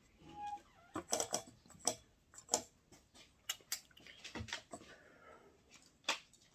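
Scattered light clicks and taps at an irregular pace, with no trumpet note sounding.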